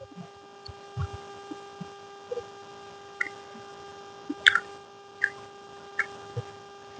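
Steady electrical hum with scattered soft clicks and small knocks, about a dozen, spread irregularly through it.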